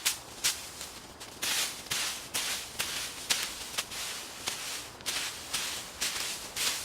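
Repeated swishing strokes through dry leaves and brush, short and sharp, roughly two a second, from clearing the forest floor by hand.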